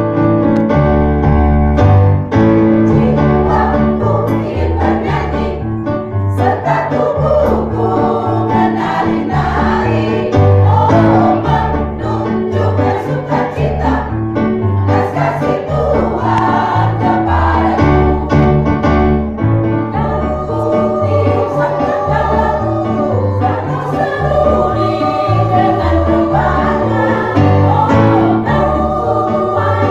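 A choir singing a Christian song in harmony, with keyboard accompaniment.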